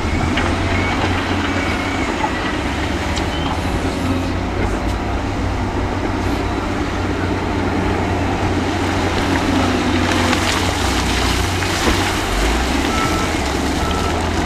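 Heavy diesel earthmoving machinery running, a steady low engine drone with the revs rising and falling now and then. Near the end a reversing alarm beeps a few times, about a second apart.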